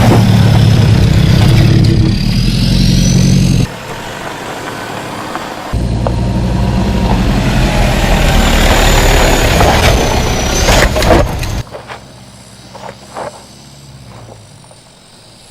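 Off-road 4x4 vehicle driving: engine running with loud vehicle noise that stops and starts abruptly in sections. After about three quarters of the way through it drops to a much quieter background with a few knocks.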